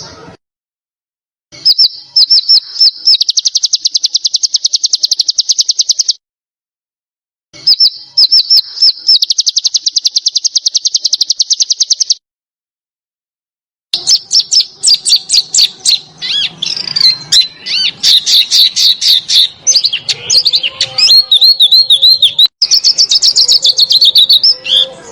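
Songbird song of rapid, densely repeated high notes, the fast rattling trills that bird-keepers call besetan and tembakan. It comes in three phrases broken by sudden silent gaps; the first two are even runs of several seconds each, and the last, starting about halfway through, is longer and more varied.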